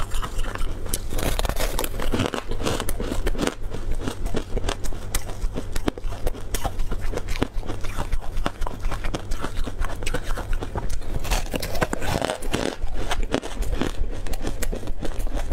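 Close-up crunching and chewing of a crispy fried tartary-buckwheat snack, a rapid, irregular crackle of bites and chews.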